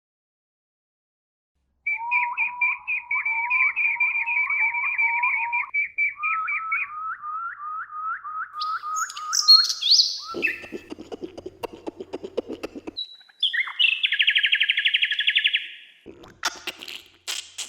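Songbirds singing after about two seconds of silence: runs of quickly repeated whistled notes, then a harsher buzzy rattle about two and a half seconds long in the middle, then a fast trill and a few sharp clicks near the end.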